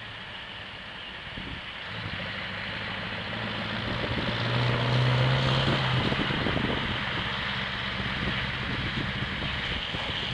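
Scania V8 diesel truck engine pulling away: it grows louder about two seconds in, climbs a little in pitch and is loudest around the middle, then settles back to a steady run.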